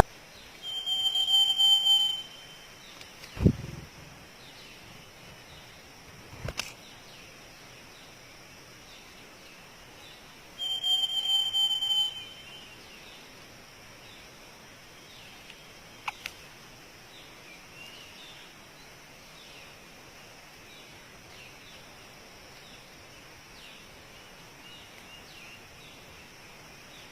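A bird giving a high, steady trilling call twice, each about a second and a half long and about ten seconds apart, with faint short chirps later on and a single thump about three and a half seconds in.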